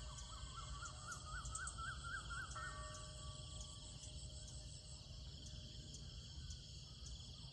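A bird calling a quick run of about ten short notes, each rising and falling, the series climbing in pitch and stopping about three seconds in, over a steady high chorus of insects.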